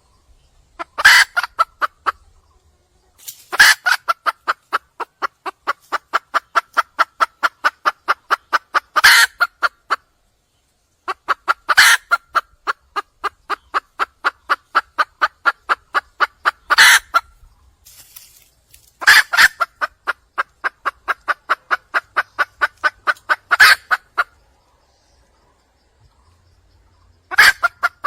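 Wild junglefowl hen calling in long runs of rapid, even clucks, about four a second, each run opened and closed by a louder note. Five runs, with short pauses between them.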